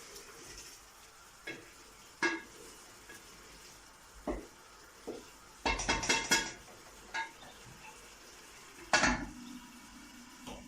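A spoon stirring in a cooking pot, clinking and knocking against it now and then, with a quick run of clinks about six seconds in and the loudest knock near nine seconds. A faint steady sizzle of frying sits underneath.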